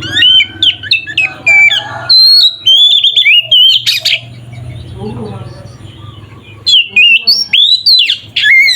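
Oriental magpie-robin (kacer) singing loud, rapid, varied whistled phrases with sharp rising and falling notes, in the full open song (ngeplong) used to provoke other kacer. The song breaks off about halfway through and starts again about two seconds later, over a faint low hum.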